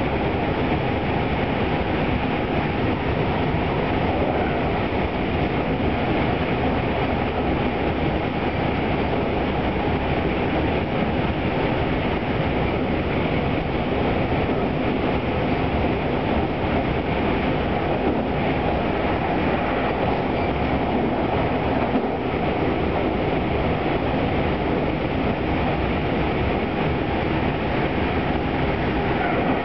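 Tobu 200 series limited express running steadily at speed, heard from the vestibule deck of motor car Moha 202-4: a constant rumble of wheels, bogies and track noise that holds level throughout, with no clear change in speed.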